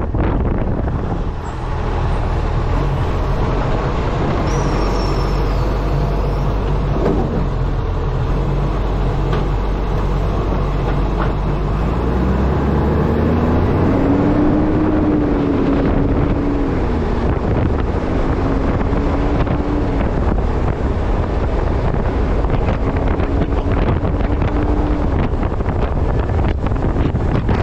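An Acco truck's engine running while driving, with wind buffeting the front-mounted camera's microphone. About halfway through, a tone rises and then holds until near the end.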